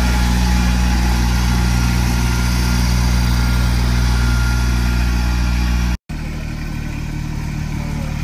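An engine running steadily with a low, even hum. About six seconds in it cuts off abruptly, and a slightly quieter engine sound carries on.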